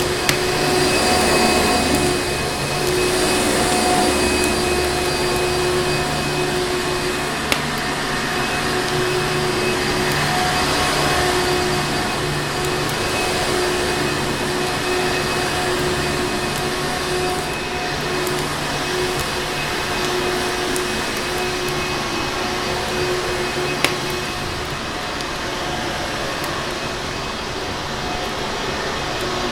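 Vacuum cleaner motor running steadily with a constant hum and whine, broken by a few sharp clicks.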